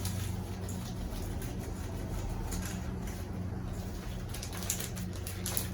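Soft, irregular handling noises of raw chicken being seasoned by hand, over a steady low electrical hum.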